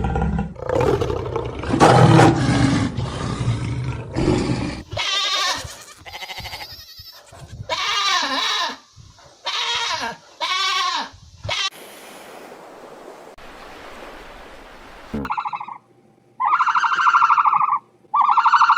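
A series of different animal calls: a low, rough roar-like sound for the first few seconds, then several pitched calls that bend up and down, and near the end three high, loud calls about a second each.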